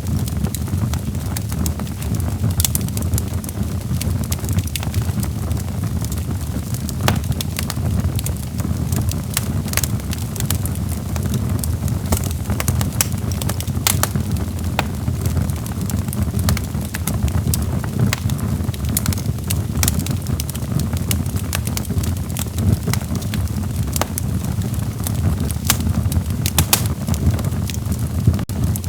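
Wood fire in a fireplace burning steadily: a low rumble of flames with frequent sharp, irregular crackles and pops from the burning logs.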